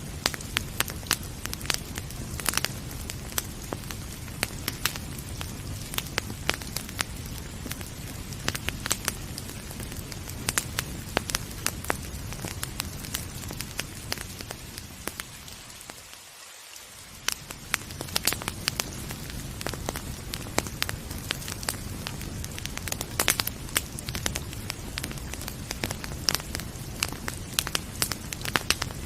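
Wood fire crackling with frequent sharp pops over a steady hiss of rain. The whole sound briefly fades down about halfway through and then comes back.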